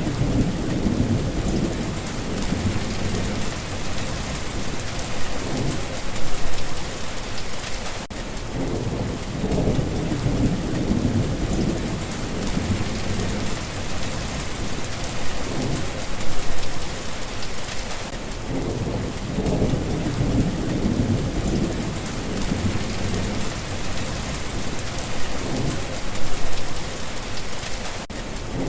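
Steady heavy rain falling, with low rolling thunder that swells and fades about every ten seconds.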